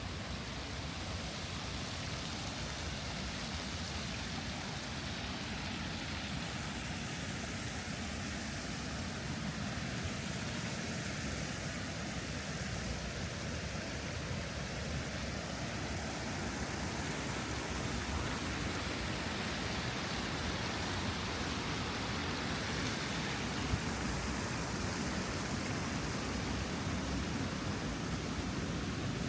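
Steady rush of road traffic, swelling twice as vehicles pass.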